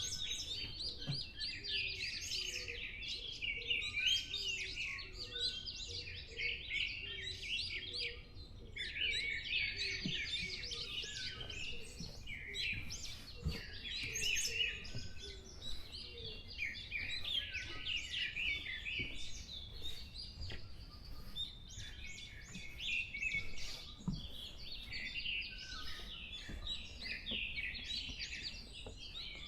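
Pre-dawn chorus of many forest birds singing and chirping at once, their songs overlapping continuously, with a run of short, lower repeated notes during the first half.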